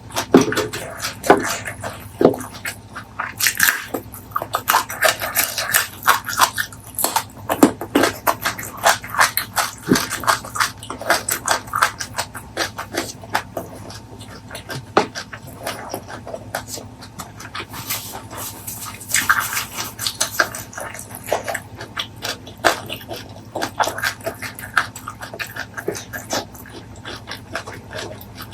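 Close-miked eating sounds: chewing with wet mouth smacks and clicks, irregular and continuous, from a mukbang meal of fried fish, chili sauce, stir-fried pumpkin leaves and rice.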